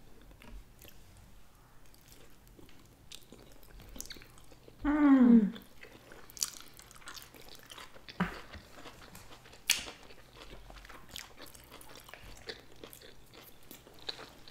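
Close-miked chewing of nigiri sushi, with soft wet mouth clicks and smacks scattered throughout. About five seconds in, a short hummed 'mm' that falls in pitch.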